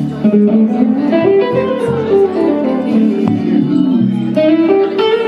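Live band playing a slow blues: a guitar plays a run of single notes that climbs and then falls, over steady low bass notes.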